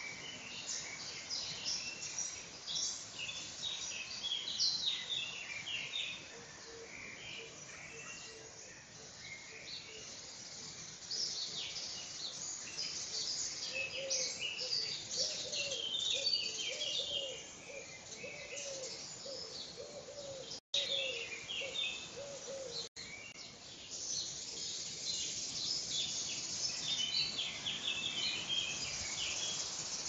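Songbirds singing and chirping together, many overlapping high calls and trills. About halfway through, a run of lower repeated notes joins them for several seconds, and the sound cuts out for an instant twice near the end.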